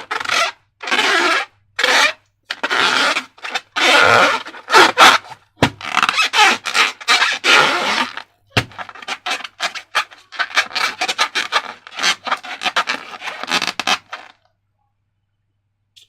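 Slime and rubber balloons worked by hand. First come rubbing, scraping strokes, about two a second, then a run of quicker, crackly squishes that stop suddenly about 14 seconds in.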